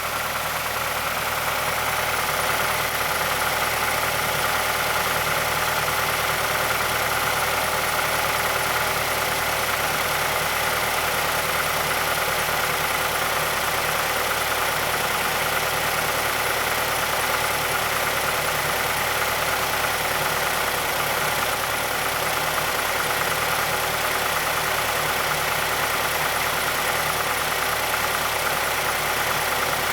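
Mazdaspeed6's 2.3 L turbocharged DISI four-cylinder idling steadily in its first minutes after a cold start. Under the engine noise there is a click from the timing chain area, hard to hear over it, which points to the worn VVT actuator or stretched timing chain that Mazda's SSP-87 covers.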